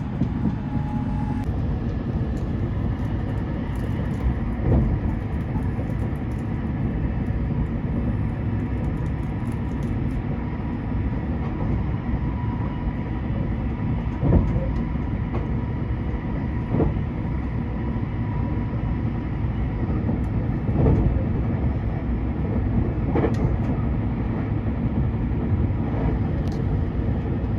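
Train running along the line: a steady rumble with a few faint steady tones and about five short, irregularly spaced thuds.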